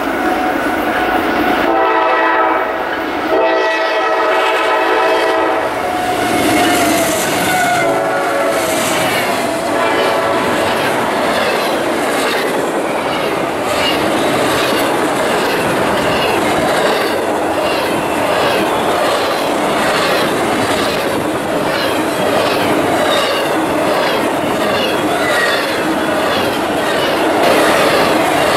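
A freight locomotive's air horn sounds a chord in four blasts, long, long, short, long: the grade-crossing signal. Then a double-stack intermodal freight train rolls past close by, its wheels clacking steadily over the rail joints.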